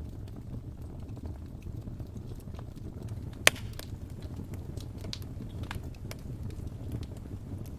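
Fire in a fireplace crackling over a steady low rumble of burning, with scattered small crackles and one sharp, loud pop about three and a half seconds in.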